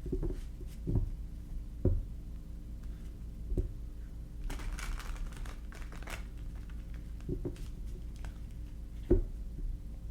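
A tarot deck being shuffled by hand: cards rustling and slapping together, with a denser rustle a little before halfway and several soft knocks of the deck against the table. A steady low hum runs underneath.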